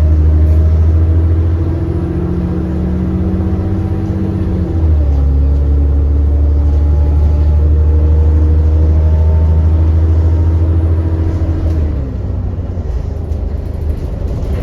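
ADL Enviro400 double-decker bus engine heard from on board, pulling under load with a deep, steady drone. The engine note steps down about five seconds in at a gear change, then pulls on. About twelve seconds in it falls away and quietens as the bus eases off.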